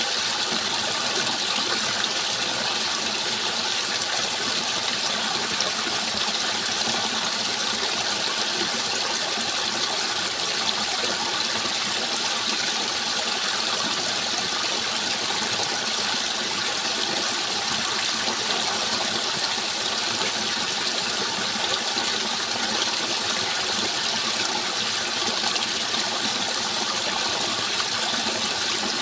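Steady rushing water, an even unbroken hiss with no separate splashes or changes.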